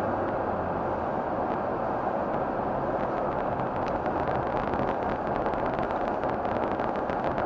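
Steady road and tyre noise of a pickup truck driving at moderate speed, heard from inside the cabin. A quick patter of small ticks joins from about halfway through.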